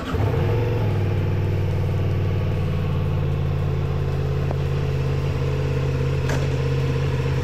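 Ducati Multistrada V4's V4 engine catching at the very start and settling into a steady idle. A single sharp click comes about six seconds in.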